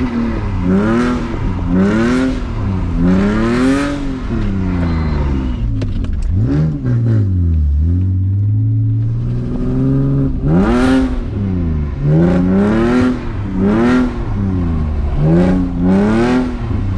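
BMW E46 engine with headers revving hard up and down in quick repeated bursts as the car is drifted. The pitch climbs and drops about once a second, eases off and sinks low about six to eight seconds in, then climbs back into the same rapid revving.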